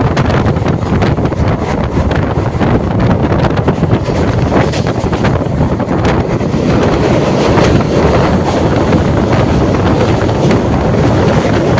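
Moving DEMU train heard from an open window, with wind buffeting the microphone over the train's steady running noise and scattered clicks.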